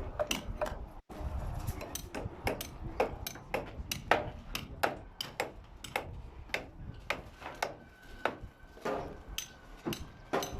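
Hammers driving nails into timber roof formwork, a quick irregular series of sharp knocks, about two or three a second.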